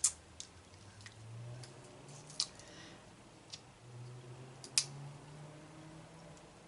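Crab claw shells being handled and cracked while eating: a scattering of sharp clicks, the loudest at the very start, about two and a half seconds in and near five seconds in, with faint squishy chewing between them.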